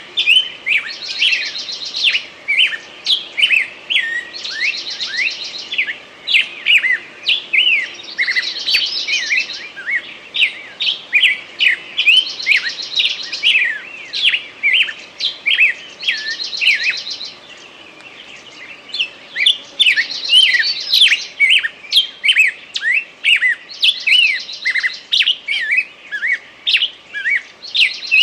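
Forest songbirds singing: a dense run of quick, high chirps, with a short buzzy trill recurring every three to four seconds. There is a brief lull about two-thirds of the way through.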